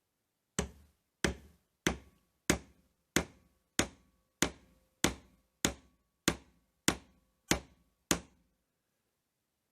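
Thirteen steady, even taps about one and a half a second, a light metal tool striking a wooden block to drive the cap off a car door-lock cylinder held in a vise, with a faint metallic ring. The cap is not yet moving.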